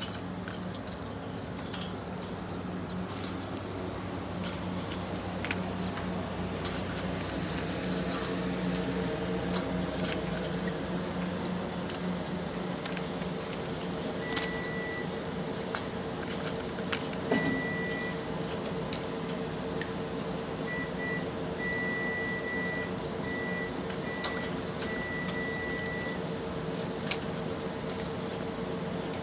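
A steady machine hum with scattered light clicks. Through the middle, a high steady tone sounds on and off in short pieces.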